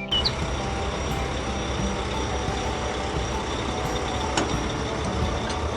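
Steady truck engine rumble, a cartoon vehicle sound effect, with a faint click about four seconds in.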